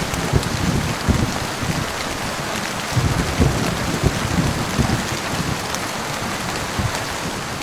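Heavy rain falling steadily, with an uneven low rumble of thunder underneath that is strongest from about three to five seconds in.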